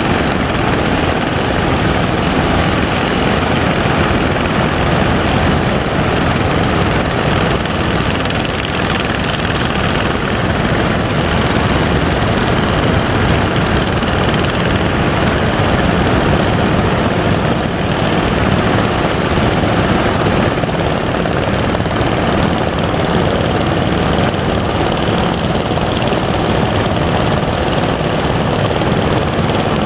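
Fishing boat engine running steadily under a constant rush of broad noise from surf and wind.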